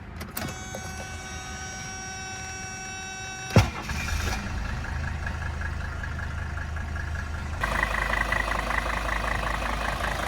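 A steady high tone with several even overtones lasts about three and a half seconds and is cut off by a sharp clunk. Then the 1978 Mercedes-Benz 300D's five-cylinder diesel idles steadily, becoming louder about seven and a half seconds in.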